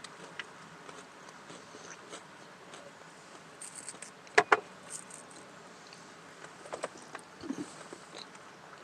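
Scattered small clicks and taps of a snack being handled and cut, with a sharp double click about four and a half seconds in.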